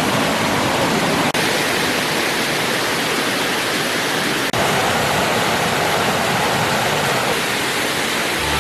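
Steady rushing water from a rainforest stream or waterfall, an even hiss-like roar, with two momentary breaks about a second in and about four and a half seconds in.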